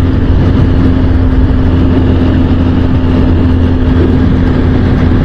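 Honda XR150L single-cylinder four-stroke engine running steadily while the motorcycle cruises at about 40 mph, a constant drone with no change in pitch.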